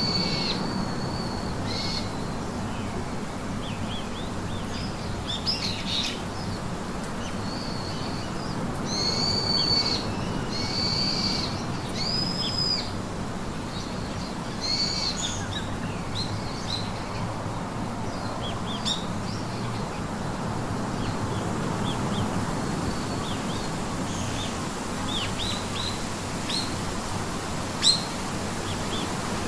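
Wild birds calling: a high whistled call with a rise-and-fall shape repeats every second or two, mixed with many short chirps, over a steady background hiss. A brief sharp tick comes near the end.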